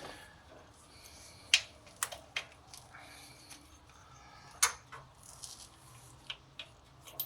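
Scattered sharp metallic clicks and clinks of bolts and hardware being handled while an engine mount is fitted back into a motorcycle frame, about half a dozen of them, the loudest about four and a half seconds in.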